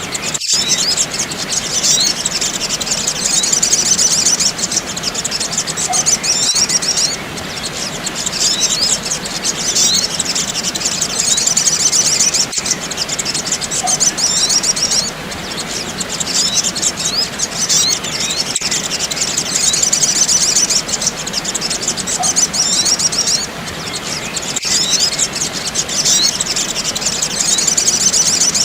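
Sunbirds (sogok ontong) twittering in a dense, unbroken stream of rapid high-pitched chirps, played as a looped bird-lure recording. The chirping breaks off briefly about every six seconds where the loop restarts.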